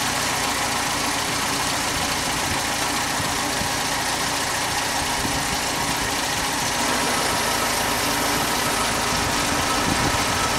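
Citroën DS four-cylinder engine idling steadily, with a slight swell in level about seven seconds in.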